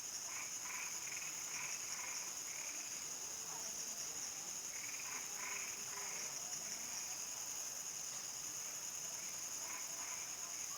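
Crickets keep up a steady, high-pitched chorus of dusk countryside ambience. Frogs call over it in short runs of repeated notes, about half a second in, around five seconds in, and near the end.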